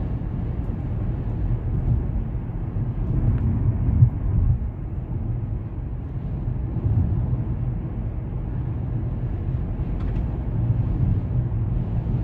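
Storm-force wind gusting and buffeting the microphone as a low, surging rumble.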